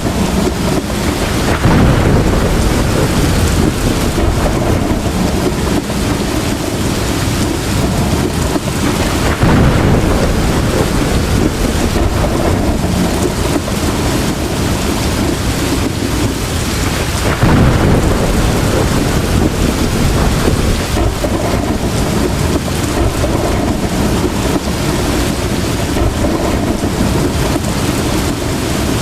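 Heavy rain falling steadily with rumbling thunder. The storm swells louder three times: near the start, about a third of the way in, and a little past the middle.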